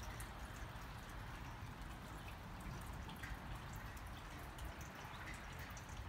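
Light rain falling, with scattered drips ticking over a steady hiss.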